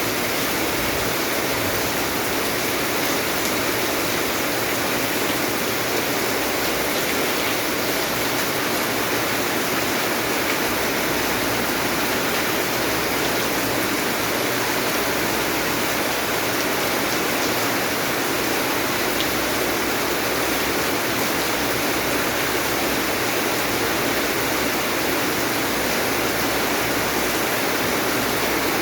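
Steady rain, a dense, even rushing hiss with no separate drops standing out.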